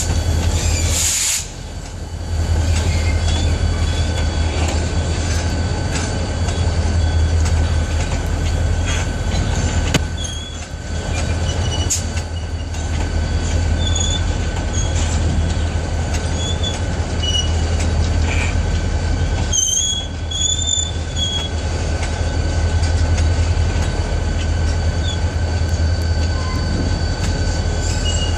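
Freight wagons of a long train rolling past: a steady rumble of steel wheels on rail, with a thin steady whine and short, high wheel squeals scattered throughout, most of them about two-thirds of the way through.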